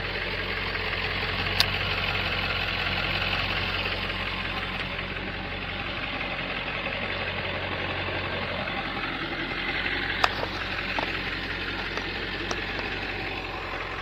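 Pickup truck engine running steadily at low revs while crawling an off-road obstacle, with a couple of sharp clicks or knocks from the truck.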